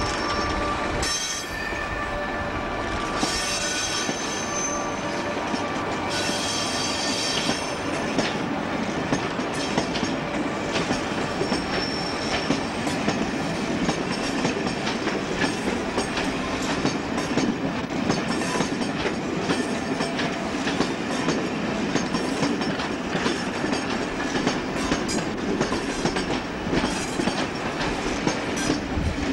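InterCity electric locomotive and its coaching stock passing on the rails, with a continuous rumble of wheels on track. High squealing tones sound in the first several seconds, and later the coaches' wheels click steadily over the rail joints.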